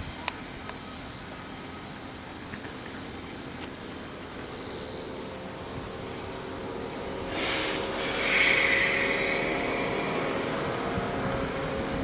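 C57 steam locomotive standing with a faint low hum, then steam starts hissing out about seven seconds in, swelling and holding steady.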